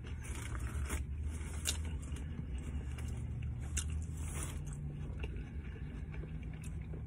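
A person chewing a mouthful of a Subway rotisserie chicken sandwich close to the microphone, with a few short crackles scattered through, over a steady low hum.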